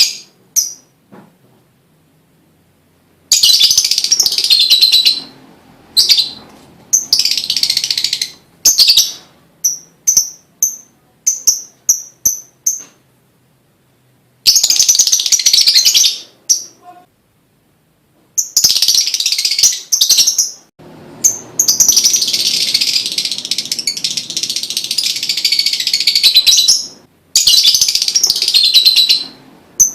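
Lovebird singing: long runs of rapid, shrill chattering lasting several seconds each, broken by short single chirps and brief pauses.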